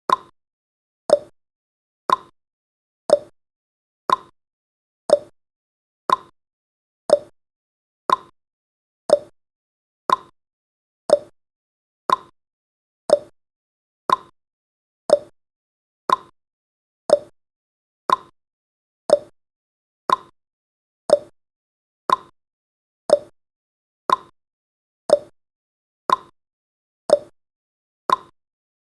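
Clock-style ticking sound effect for a countdown timer, one short tick every second, with successive ticks alternating slightly between a higher and a lower pitch like a tick-tock.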